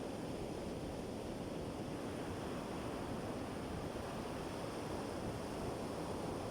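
Sea surf washing steadily on the shore, a continuous low rush without separate breaks.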